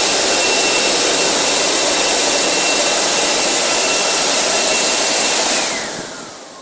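Touchfree car wash's dryer blowers running with a loud steady rush and a high whine, then switching off about five and a half seconds in: the whine falls in pitch and the rush fades as the fans spin down, marking the end of the drying stage.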